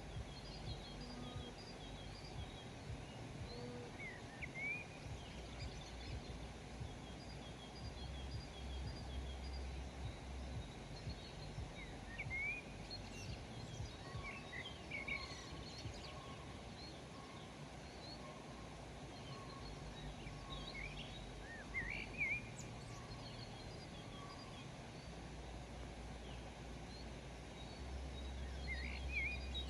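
Wild birds calling intermittently outdoors: scattered short chirps and quick rising notes, a few at a time every several seconds, over a steady background haze with a low rumble.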